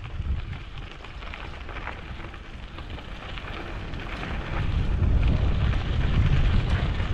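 Mountain bike rolling over a dirt and gravel road: the tyres crunch and crackle, and wind rumbles on the microphone. The rumble grows louder about four and a half seconds in.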